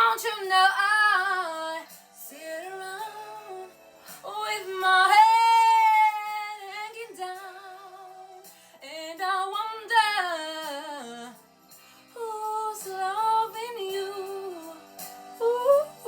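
A mezzo-soprano woman singing a slow soul ballad in several phrases, with a long note held with vibrato about five seconds in, and only sparse accompaniment beneath the voice.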